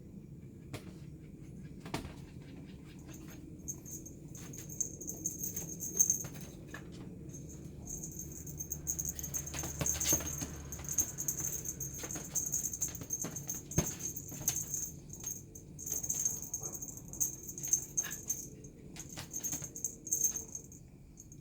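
Kittens playing with catnip: many irregular light taps and scratches, with an on-and-off high rustling or jingling that comes and goes from about four seconds in.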